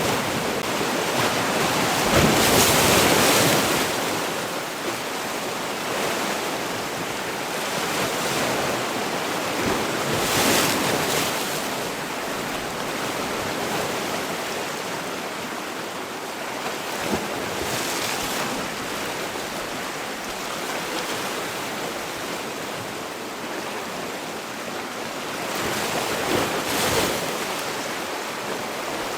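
Sea waves washing ashore in a steady surf, with a louder surge breaking every several seconds, the strongest a few seconds in.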